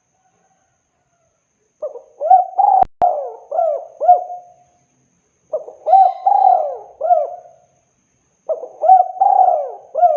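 Spotted dove cooing: three repeated multi-note coo phrases, the first starting about two seconds in, each note arching up and down in pitch. A pair of sharp clicks falls during the first phrase.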